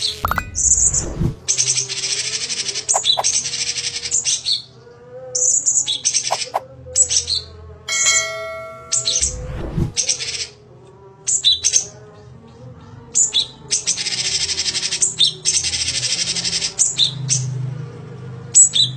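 A cucak cungkok (leafbird) singing: long harsh, scratchy chattering phrases of one to two seconds each, repeated with short pauses and broken by brief whistled notes. Two short low thumps come near the start and about halfway through.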